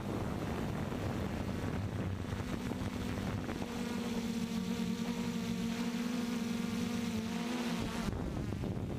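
Wind buffeting the microphone, with the steady, even-pitched hum of a Walkera drone's motors and propellers coming through from a few seconds in until shortly before the end.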